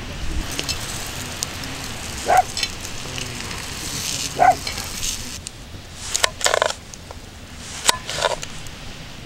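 Shiitake mushrooms sizzling in a frying pan over a wood fire, with two brief squeaks as they are turned with tongs. About five and a half seconds in the sizzle drops away, and several light clacks follow as raw zucchini slices are laid into a pan.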